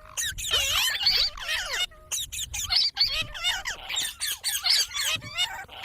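Parrot chattering in a quick run of high-pitched chirps and squawks that bend up and down in pitch, with brief pauses between bursts.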